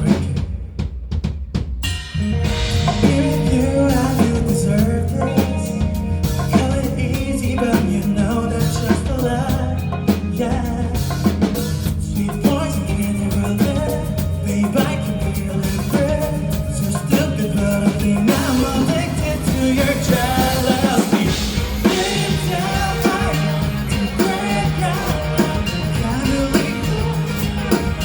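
Live rock band playing with drum kit, bass and guitar, in a loud mostly instrumental passage. The drums and high end drop out briefly at the start and the full band comes back in about two seconds in.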